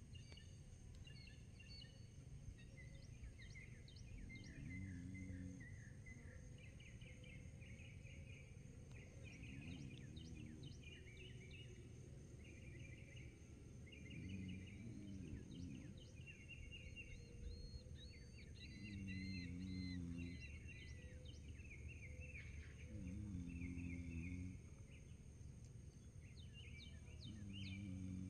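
Small birds chirping and singing short trilled phrases over and over, faint, over a low background hum.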